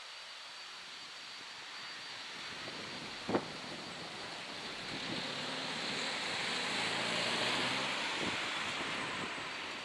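A vehicle passing the crossing: its running noise swells to a peak past the middle and then fades, with a low engine hum under it. A single sharp click comes about three seconds in.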